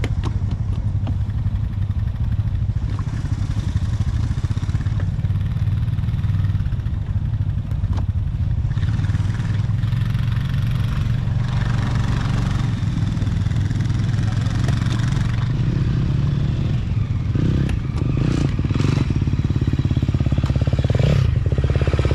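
Husqvarna TC 85's small two-stroke single-cylinder engine running at a steady, even pitch, with a few short changes in engine speed near the end.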